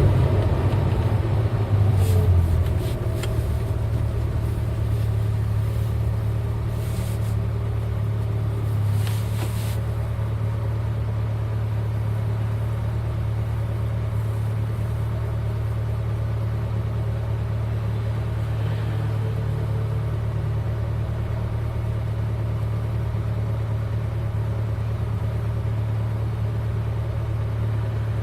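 Car V8 engine running with a steady low drone at an even engine speed. It is a little louder for the first three seconds, then eases to a constant level.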